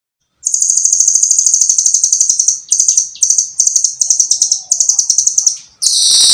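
Rambatan (nuthatch) singing: very fast, high-pitched trills of sharp repeated notes. About half a second in comes one long run, followed by several shorter bursts.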